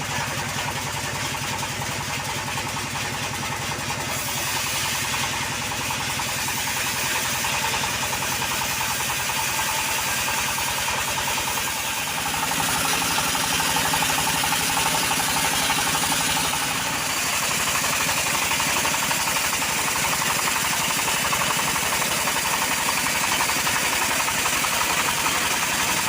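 Stihl MS381 chainsaw's two-stroke engine running steadily, growing louder and brighter about four seconds in and again at about twelve seconds, as it works through the log.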